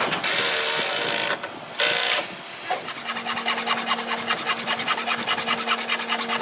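Two bursts of hissing, then rapid rhythmic scraping on hardwood, about eight strokes a second, over a steady low hum.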